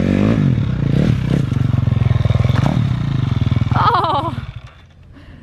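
Dirt bike engine revving up and down through the throttle, then fading away about four seconds in.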